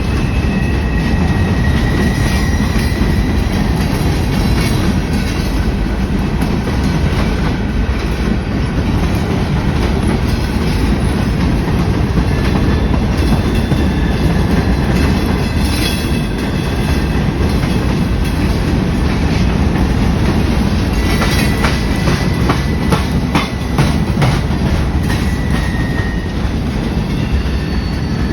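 Train cars rolling past with a steady heavy rumble and the clickety-clack of wheels over the rails, with brief high wheel squeals now and then.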